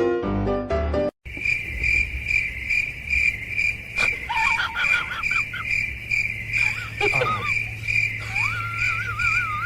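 Piano music for the first second, cut off suddenly. Then a cricket chirps in a steady pulse, about two chirps a second, with short wavering calls in the middle and a longer wavering call near the end.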